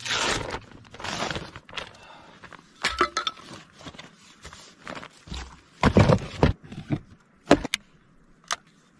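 Handling noises of rustling and scraping, with a heavy knock about six seconds in and a few sharp clicks near the end.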